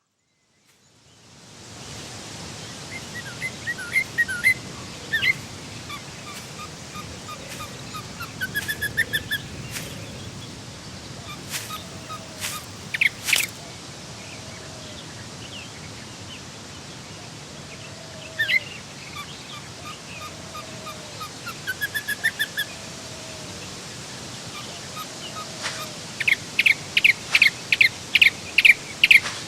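Forest ambience fading in from silence over a steady hiss: several songbirds chirping and singing in scattered phrases, with a few sharp clicks partway through and softer low calls repeating at even intervals. Near the end a bird gives a fast run of loud repeated notes, about three a second.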